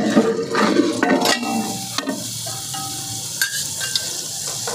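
Half-fried chicken going into a large pot of hot onion masala in mustard oil, sizzling and frying, with a few sharp knocks of stirring.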